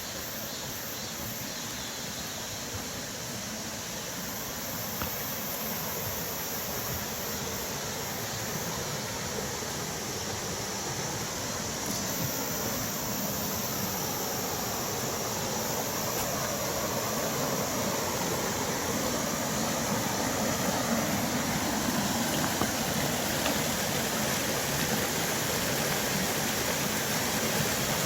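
Mountain stream rushing over rocks, growing steadily louder. High pulsing insect calls are heard during the first third.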